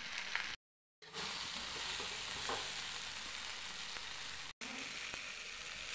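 Stuffed brinjals sizzling in hot oil in a kadhai while a metal spatula stirs and scrapes them. The sound drops out completely for a moment about half a second in, and again very briefly near the end.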